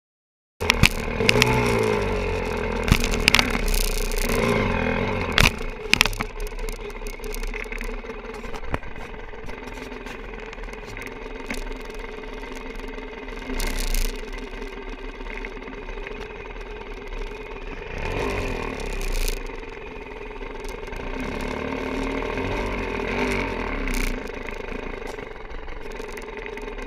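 Enduro dirt bike engine running and revving, its pitch rising and falling, with several sharp knocks and clatter in the first few seconds. The sound starts abruptly about half a second in and cuts off at the end.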